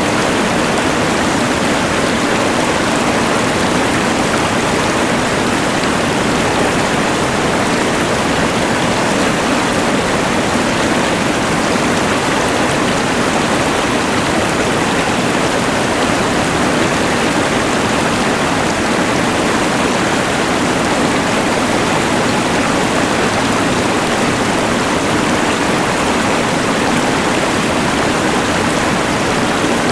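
Rushing mountain river blended with the hiss of a LectroFan white noise machine: a loud, steady, unbroken wash of noise.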